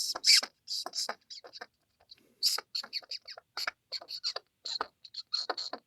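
Mouse squeaking: a quick run of short, high squeaks, with a brief pause about two seconds in.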